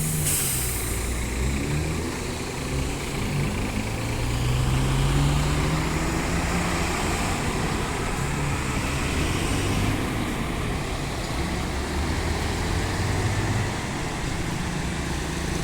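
Diesel engine of a Scania-chassis Marcopolo Paradiso double-deck coach running, rising in pitch over the first few seconds as it speeds up and then holding steady, with road and tyre noise throughout. A short hiss right at the start.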